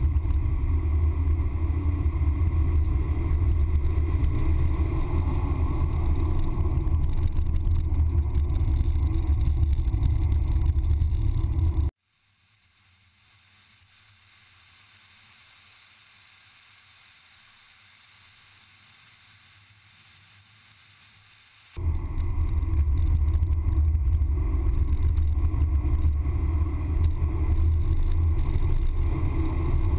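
Porsche Panamera Turbo at speed on track, heard inside the cabin: twin-turbo V8 and road noise as a steady, loud, low rumble. About 12 s in it drops abruptly to a faint hiss for about ten seconds, then the cabin sound returns just as abruptly.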